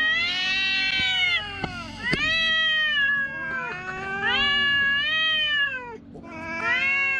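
Agitated domestic cat yowling: a run of long, drawn-out cries, each rising and then falling in pitch, about four in a row with short gaps between them.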